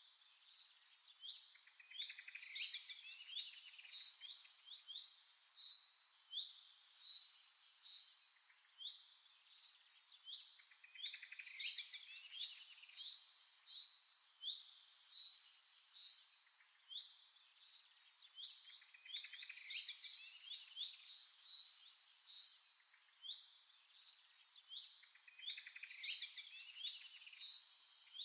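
Songbirds chirping and singing, many quick high chirps and trills overlapping, with a fuller burst of song coming back about every eight seconds.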